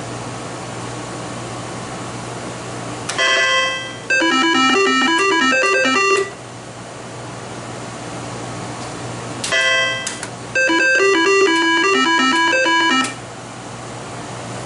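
IGT S2000 slot machine's electronic game sounds, heard twice as games are played: each time a short chime, then about two seconds of quick beeping notes that stop abruptly. A steady low hum runs underneath.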